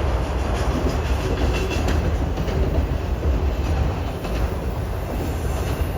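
Freight train of auto rack cars rolling past at close range: a steady rumble of steel wheels on rail with the clack of wheels over rail joints and a faint wheel squeal.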